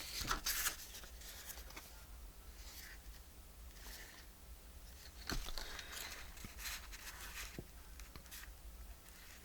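Paper being handled and shuffled on a craft table: soft intermittent rustles with a few light taps and clicks.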